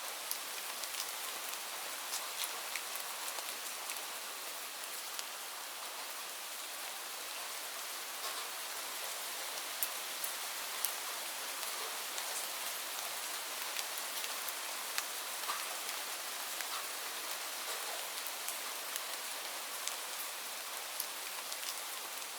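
Steady rainfall: a constant hiss of rain with many separate drops ticking sharply on a surface.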